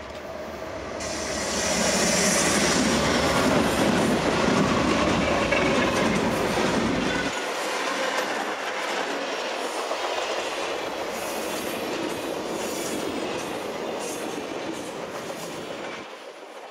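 Norfolk Southern diesel locomotives passing close by with a heavy low rumble, loudest in the first seven seconds, then the train's passenger cars rolling past with a steady clickety-clack of wheels over the rail joints and faint wheel squeal.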